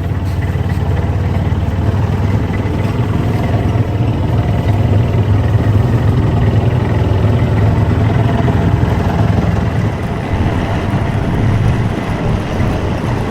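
Kubota M7060D tractor's diesel engine running steadily. It grows a little louder about a third of the way in and eases off near the end.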